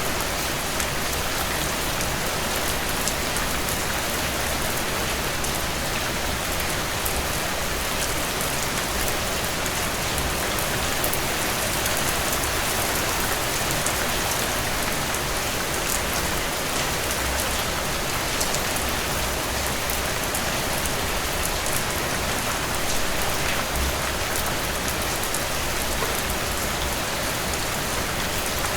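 Heavy rain falling steadily on a tin roof, with individual drops ticking sharply through the hiss. A low rumble swells and fades underneath now and then.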